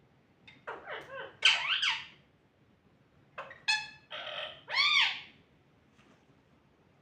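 Pet parrot calling in two bursts of sliding, pitched squawks and chirps, the first about a second in and the second about three and a half seconds in.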